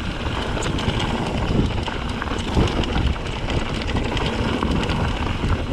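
Mountain bike descending a rocky trail at speed: wind buffeting the microphone, with the tyres and frame clattering in many quick knocks and rattles over the rocks.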